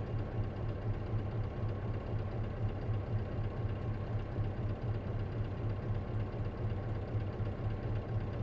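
Isuzu KC-LV380N city bus engine idling, heard from inside the bus, with a steady rapid low throb.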